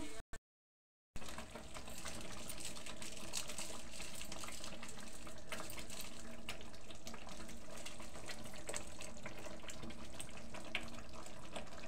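Onion and spice masala sizzling in hot oil in a kadhai as it is stirred: a steady sizzle dotted with many small crackles and pops. The sound drops out for about a second near the start.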